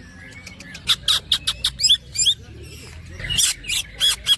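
Greater green leafbird (cucak ijo) singing in two fast runs of short, sharp, downward-hooked notes, a rattling 'platukan' run that mimics a woodpecker's pecking. The first run starts about a second in and the second shortly after three seconds.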